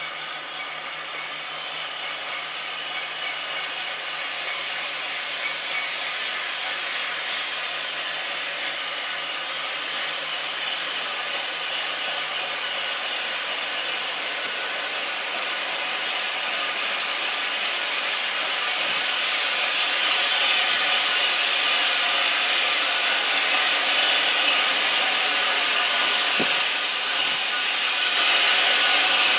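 Steady hiss of steam from a steam locomotive, growing gradually louder.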